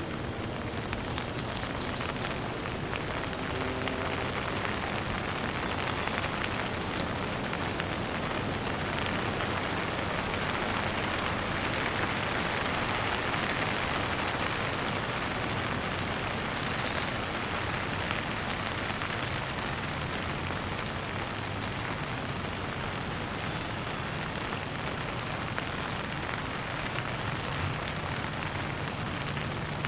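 Steady rain pattering on a surface, with many close individual drops. About halfway through, a bird chirps briefly at a high pitch.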